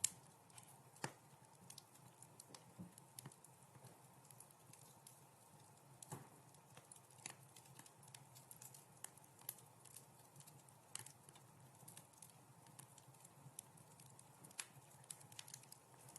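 Wood fire in a fireplace crackling: a constant scatter of soft, irregular snaps and ticks over a faint low hiss, with a few sharper pops, the loudest right at the start and about a second in.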